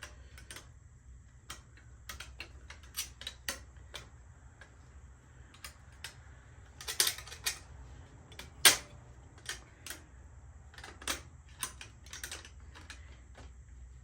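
Irregular sharp clicks and taps of small metal parts and tools being handled as mini pegs are fitted to a lowrider bicycle, with the loudest knocks around the middle, over a steady low hum.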